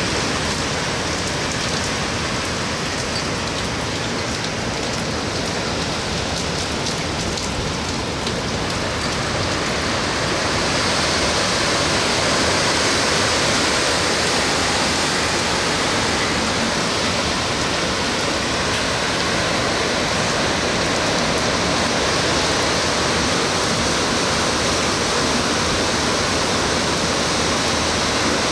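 Heavy hurricane rain and wind, a steady dense hiss of downpour. It grows heavier and louder about ten seconds in and stays at that level.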